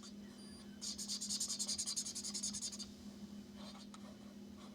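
Quick scribbling strokes of a pen or marker on paper, coloring in amounts on a savings tracker. The strokes run from about a second in for about two seconds, and a few fainter strokes come near the end.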